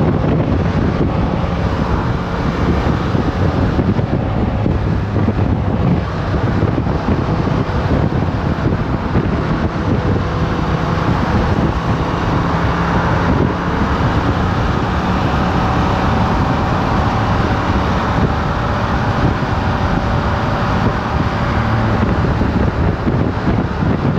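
Motorcycle engine running steadily while riding, with wind noise buffeting the camera microphone.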